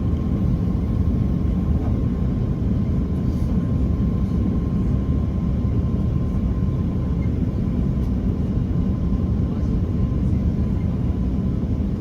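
Steady cabin noise of an Airbus A330-300 in cruise: the low, even rush of jet engines and airflow, with a faint steady whine above it.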